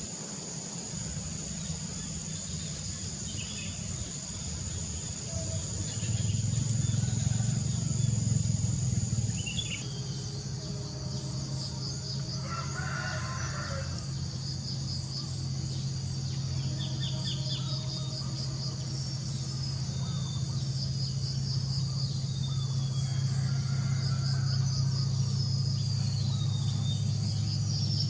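Countryside ambience: a steady chorus of crickets and other insects, with birds chirping, short pulsed trills and a few falling whistles. A steady low hum runs underneath. The sound changes abruptly about ten seconds in, as at an edit.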